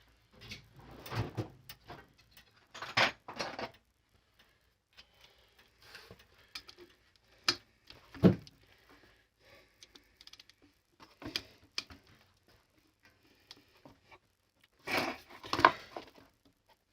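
Intermittent knocks, clinks and rattles of hand tools and metal parts being handled at a bench, with a sharper knock about eight seconds in.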